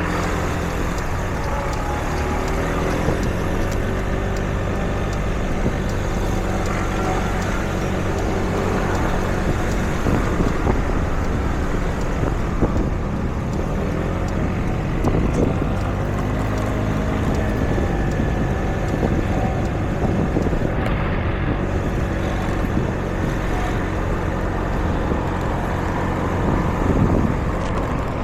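City street traffic: a steady rumble of vehicle engines running and passing, with engines now and then rising and falling in pitch.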